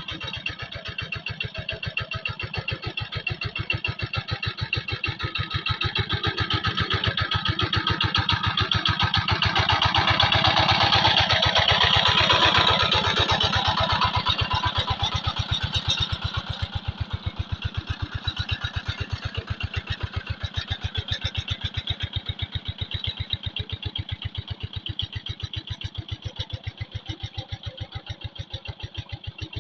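Engine of a paddy-field plough tractor chugging steadily with a rapid, even beat, growing louder toward the middle and then fading as it moves away.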